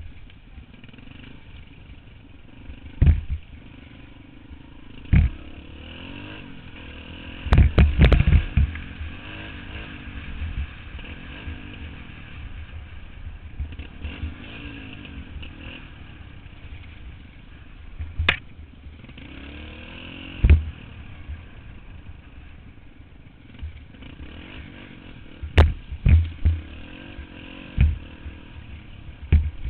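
Dirt bike engine running, its pitch rising and falling as the throttle changes, with loud thumps and knocks now and then, the heaviest cluster about eight seconds in.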